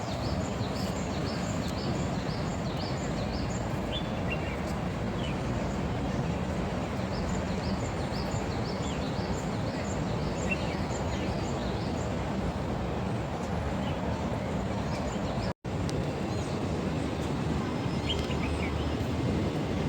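Songbirds chirping repeatedly, short high chirps in quick series, over a steady low rumble of outdoor background noise. The sound drops out for an instant about three-quarters of the way through.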